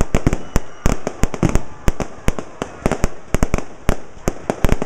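Aerial fireworks bursting: a rapid, irregular run of sharp bangs, several a second, with crackle between them.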